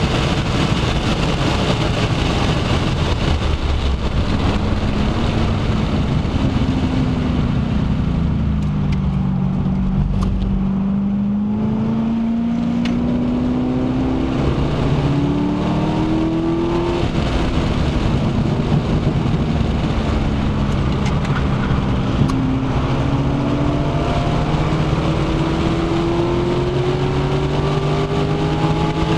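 Inside the cabin of a C6 Corvette Z06, its 7.0-litre LS7 V8 runs flat out on track with heavy wind noise at about 150 mph. The engine note then falls as the car brakes and downshifts for a corner, and climbs again under hard acceleration, with a shift about halfway and another long rise near the end.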